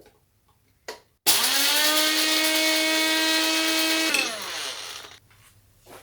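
Electric kitchen blender switched on just over a second in, its motor whining up to speed and running steadily for about three seconds, then switched off and winding down with a falling pitch. A small knock comes just before it starts.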